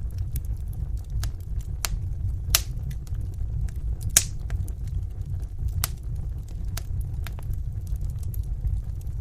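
Wood fire burning in a fireplace: scattered crackles and sharp pops over a steady low rumble of flame, with two louder pops about two and a half and four seconds in.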